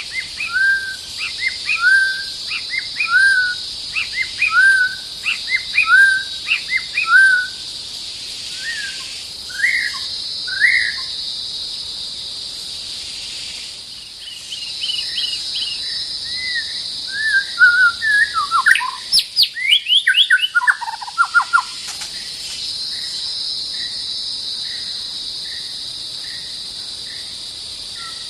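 White-rumped shama singing: a run of short rising whistles, about two a second, for the first ten seconds, then after a pause a more varied phrase of whistles and quick falling trills around twenty seconds in. A steady high hiss runs behind the song.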